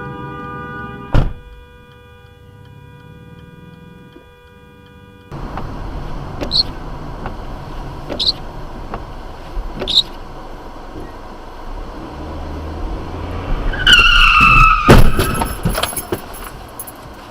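Car crash recorded from a dashcam. A sharp bang about a second in, then road noise with three short chirps. Near the end, tires squeal for about a second and end in a loud collision, followed by rattling debris.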